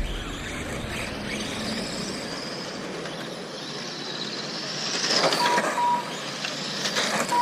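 Radio-controlled Spec Mod race cars running laps, their electric motors whining up and down in pitch as they pass, louder about five seconds in. Short electronic beeps from the lap-timing system sound twice about five and a half seconds in and once more at the end.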